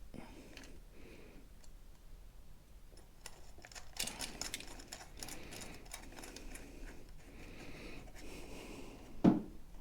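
Light clicking and rattling of small parts and hand tools being handled at a workbench, sparse at first and busier from about four seconds in, with a single louder thump near the end.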